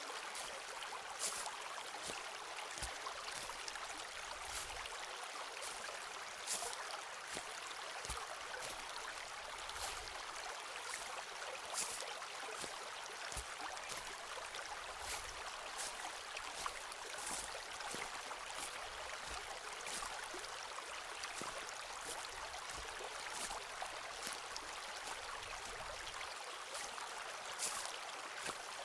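A stream flowing steadily, with footsteps on a forest path about once a second.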